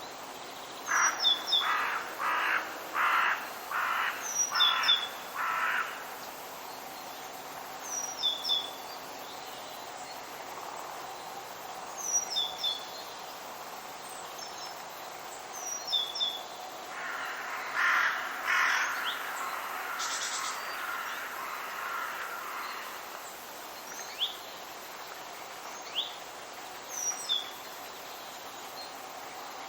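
Forest birds calling. A bird gives a run of about seven harsh, evenly spaced calls starting about a second in, and another run of harsh calls comes about seventeen seconds in. Meanwhile a small bird repeats a short, high, falling two-note chirp every few seconds, over a steady background hiss.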